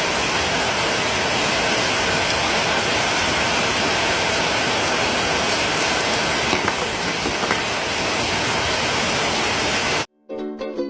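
Heavy rain pouring down, a steady, even hiss that cuts off suddenly near the end.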